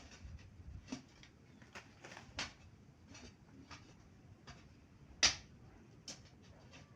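Scattered light clicks and knocks, a few seconds apart, with one sharper knock about five seconds in.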